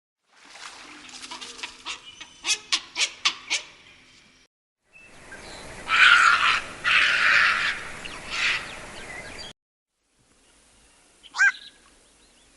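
Black-crowned night heron giving harsh calls. First comes a quick run of short, sharp calls, then a louder, harsher stretch, and one single call near the end. The stretches are separated by sudden silent breaks.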